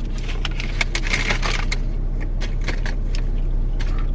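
Steady low hum inside a parked car's cabin, with many short clicks and crackles over it.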